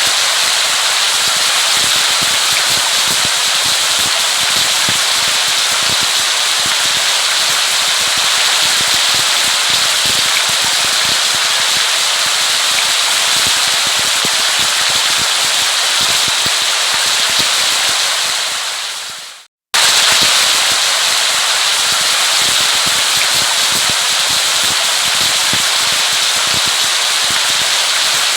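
Steady rain falling with dense crackling patter. About 19 seconds in it fades out, stops for a moment and starts again at full level, as at the seam of a looped rain recording.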